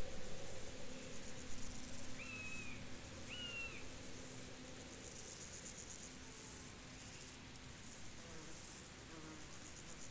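Field insects chirping in fast, pulsing trills that swell and fade in bursts, with two short whistled calls, likely a bird's, a little after two and three seconds in.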